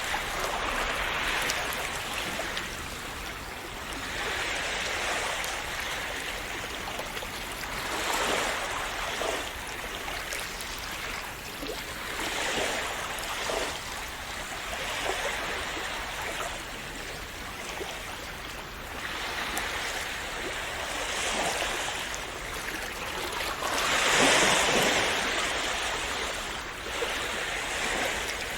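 Small sea waves washing in and splashing on the shore, rising and falling in swells every few seconds, with a larger wave breaking near the end.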